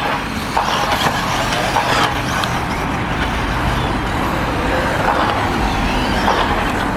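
Electric RC buggies running on a track: a steady wash of tyre and running noise with faint short whines of motors rising and falling.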